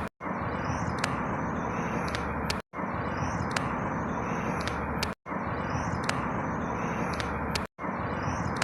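Outdoor ambience: a steady rushing background noise with a few high bird chirps over it. The same short stretch repeats about every two and a half seconds, each time broken by a brief cut to silence, as in a looped recording.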